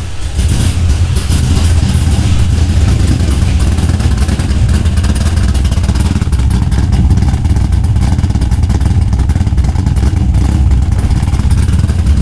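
LS1 V8 engine in a Nissan S14 240SX running steadily at a low, even rumble through a newly fitted muffler in place of its old open blast pipes.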